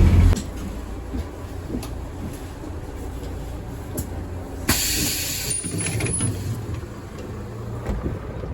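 Mechanical rattling and clicking of a railway train, with scattered knocks and a short burst of hiss about five seconds in.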